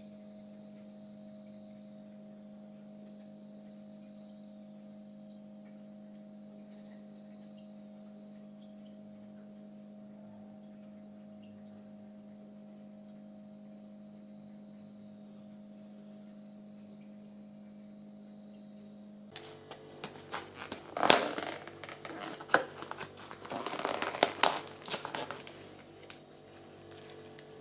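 A steady low electrical hum. About two-thirds of the way through, a few seconds of irregular clattering, knocking and rustling take over, the sound of objects being handled.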